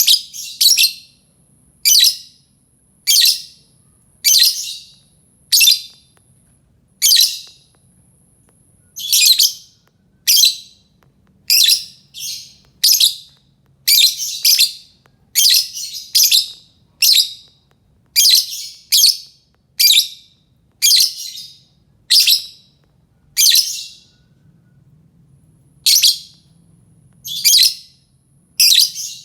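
A lovebird giving short, shrill calls over and over, about one a second, with a brief pause near the end. These are calls used as a lure to draw other lovebirds into answering.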